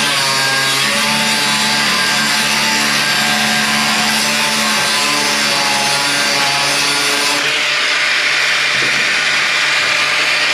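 Electric power tool cutting through car body metal, with a steady motor whine whose pitch wavers under load. About seven seconds in, the cutting sound changes and turns harsher.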